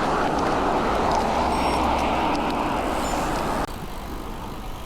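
Steady, loud rushing road noise from riding among traffic. It cuts off abruptly about three and a half seconds in, leaving a quieter background of road noise.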